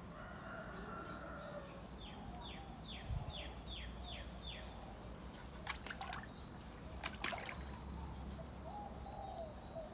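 A bird calling a quick run of about seven short, falling chirps, then water sloshing and dripping in a tub as a wet golden retriever shifts and sits up in it, with a few sharp splashes about two-thirds of the way through.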